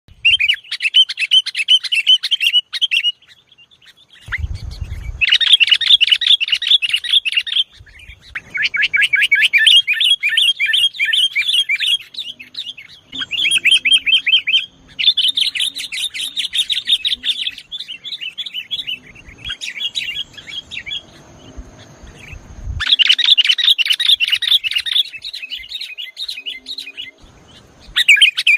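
Sooty-headed bulbul (kutilang) singing in a fast, chattering 'nggaruda' style, in repeated bursts of a few seconds with short breaks between them.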